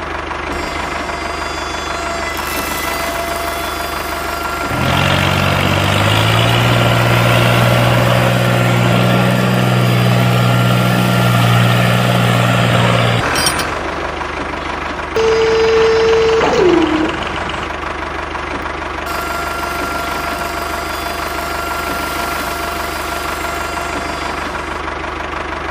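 Engine sound of a mini tractor-crane running steadily, getting louder and working harder from about five to thirteen seconds. About fifteen seconds in there is a short steady tone that slides down in pitch at its end.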